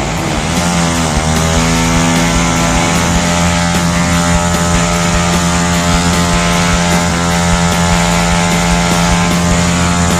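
Motorcycle engine running at a steady speed, its pitch settling after a shift in the first second or so.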